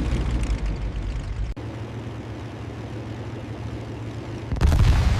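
Propeller aircraft's piston engine running under power. About a second and a half in, the sound cuts to a steadier, lower drone, and near the end a sudden louder rush of noise breaks in.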